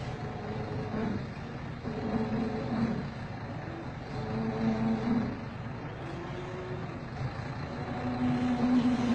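Scania truck's diesel engine running, its revs raised and held in several stretches of a second or so.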